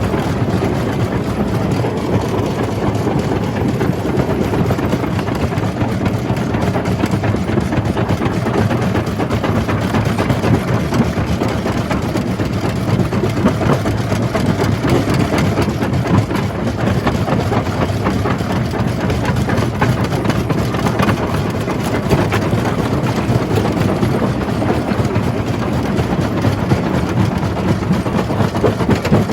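Jaw crusher running at a steady, loud level, a low machine drone under dense clattering and cracking of rock being crushed in the jaws.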